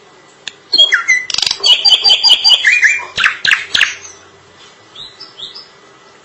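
Drongo singing a loud, fast burst of varied whistles, chatters and sharp clicks for about three seconds, then a few softer whistled notes near the end.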